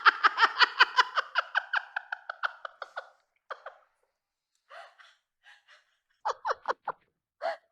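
A long, high-pitched laugh, a quick even run of 'ha-ha' pulses that dies away about three seconds in. Scattered short breaths, gasps and small laughs follow.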